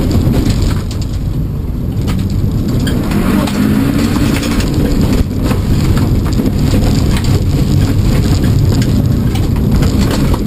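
Subaru Impreza's flat-four engine heard from inside the cabin, revving up and falling back several times while driving hard. Gravel and grit crackle against the underside of the car from the loose ground.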